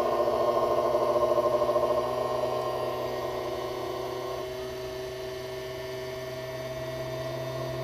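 Creality Ender 3 V3 Plus 3D printer buzzing with several steady pitched tones as its motors shake the machine during its startup self-check, a sound like it is sending a vibration to itself. Loud for the first two seconds, then quieter, with the pitch stepping to a new tone about four and a half seconds in.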